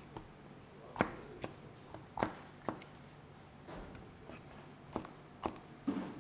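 Knife chopping on a cutting board: sharp, irregular knocks that come mostly in pairs about half a second apart.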